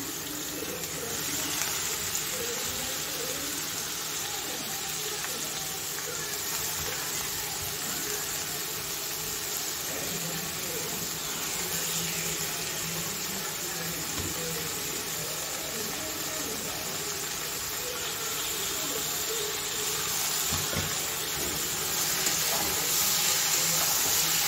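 Sliced oyster mushrooms frying in spiced oil in a kadai: a steady frying hiss while they are mixed in with a metal spatula.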